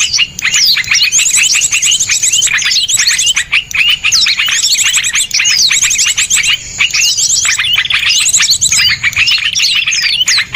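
Small songbirds chirping in dense, fast trills of sharp, high, down-sweeping notes, one burst running straight into the next with barely a pause.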